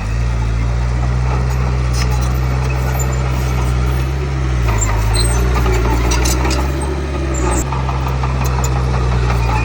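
Heavy diesel engine of a construction machine running steadily under load. Its note drops briefly about halfway through and then comes back up, with faint high squeaks and clicks over it.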